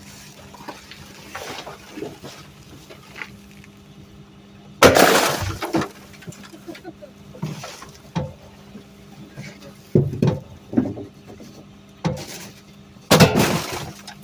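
A trash can being banged against a garbage truck's hopper to knock out frozen-in ice, with ice breaking loose. Two loud crashes, about five seconds in and near the end, and several smaller knocks between them, over the truck's steady engine hum.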